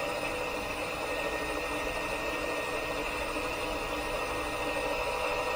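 Steady hum and hiss of a news helicopter's cabin, with several steady whining tones held through.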